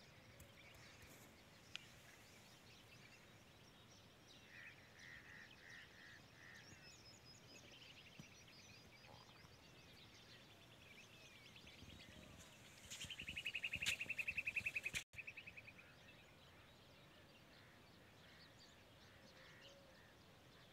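Faint birdsong: small birds chirping, with a short run of repeated notes about a quarter of the way in. A louder fast trill lasts about three seconds a little past the middle, falling slightly in pitch.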